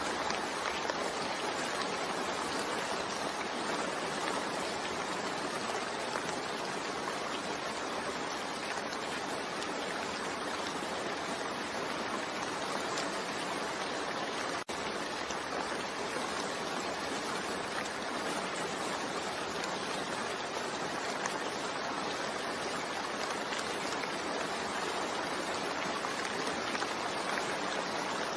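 Steady rain falling, an even hiss with no pattern or rise and fall, broken by a split-second gap about halfway through.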